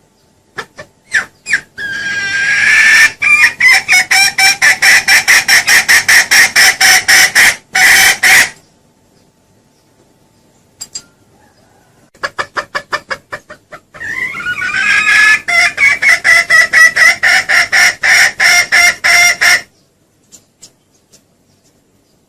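Junglefowl calling in two long bouts. Each bout starts with a few separate notes and runs into a fast, even series of loud clucking notes, about five a second, lasting several seconds. This is the call used to lure wild junglefowl.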